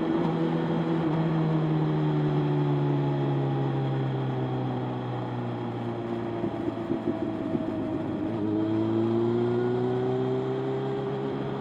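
Motorcycle engine on the move, its note falling gradually as it slows for the first several seconds, turning rough and uneven for a couple of seconds, then rising again as it picks up speed.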